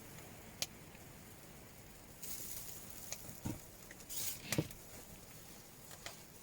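A few sharp clicks and soft low thumps scattered over a quiet background, with two short bursts of high hissing rustle.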